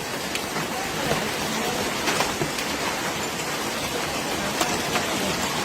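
Heavy downpour of rain and hail, a steady hiss scattered with many sharp ticks of hailstones striking hard surfaces.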